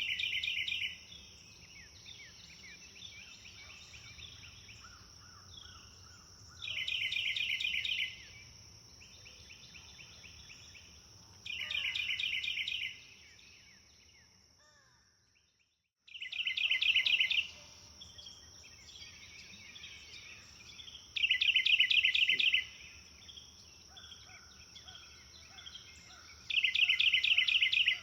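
A songbird repeating a loud, rapid trilled phrase of about a second and a half, roughly every five seconds, over softer calls of other birds and a steady high buzz. About halfway through everything fades out to silence and cuts back in a second or so later.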